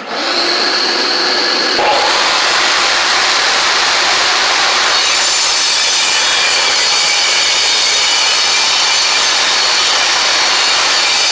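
Ridgid table saw starting up and ripping a 1 3/4-inch strip from a rough-cut eastern red cedar board. The sound changes about two seconds in as the blade enters the wood, then holds a loud, steady cutting noise.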